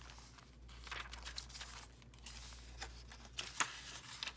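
Paper rustling and crinkling as the mixed-paper pages and inserts of a handmade junk journal are turned and handled, with a sharper rustle about three and a half seconds in.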